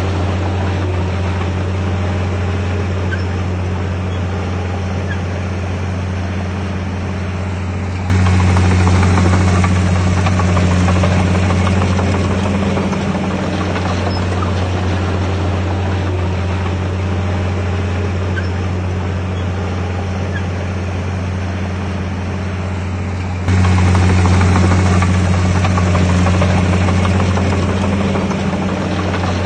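Diesel engine of a Komatsu D51PX bulldozer running with a steady low drone, stepping abruptly louder about eight seconds in and again about 23 seconds in.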